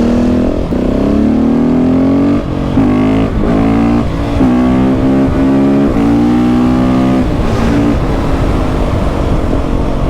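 KTM 690 SMC R single-cylinder supermoto engine pulling hard through the gears, its pitch climbing and breaking off several times at each gear change.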